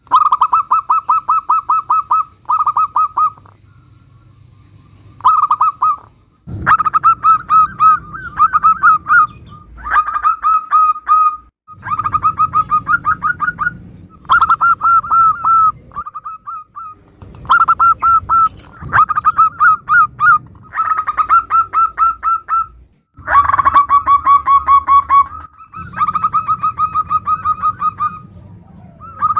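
Zebra doves (perkutut) cooing: phrase after phrase of rapid, rhythmic coo notes, separated by short pauses. The phrases change abruptly in background and tone, as recordings of different birds are spliced one after another.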